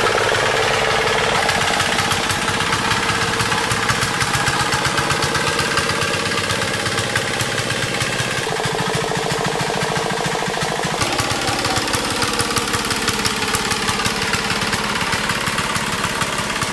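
Restored D12 single-cylinder diesel engine running steadily, its rapid, even firing knock heard throughout.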